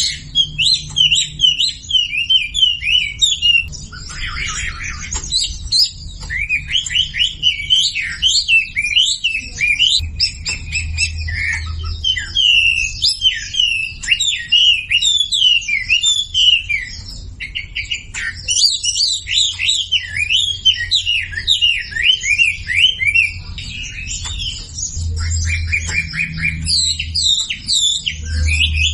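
Wambi birdsong: long strings of quick, high chirps and twitters, almost unbroken, with a few short pauses, over a faint low hum.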